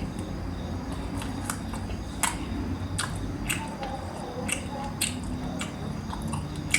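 Close-up chewing and mouth smacking while eating a chicken curry leg piece, with irregular sharp wet clicks, a few a second.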